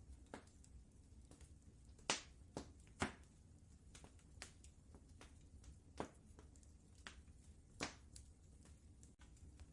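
Wood fire crackling in a fireplace: irregular sharp pops and snaps, the loudest about two seconds in, at three seconds and near eight seconds, over a low steady rumble.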